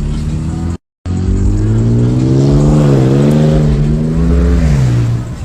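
Car engine running under throttle: after a brief dropout its note rises and holds with small wavers, then falls back to a lower pitch near the end.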